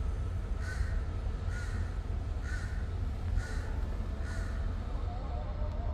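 A bird calling five times in a row at an even pace, about one call a second, over a steady low rumble.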